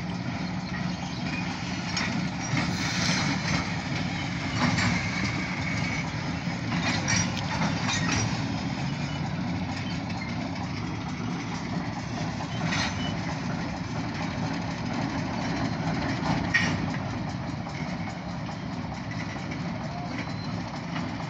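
Slow freight train of grain hopper cars rolling past with a steady rumble. Sharp clicks and knocks from the wheels and rails come now and then, and there is a brief high squeal about four seconds in. The diesel locomotive's engine passes in the second half.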